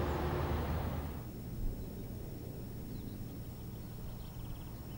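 A steam-hauled Pullman train running away into the distance, its rumble fading over the first second before cutting off abruptly. A quieter low steady rumble follows, with a few faint high chirps.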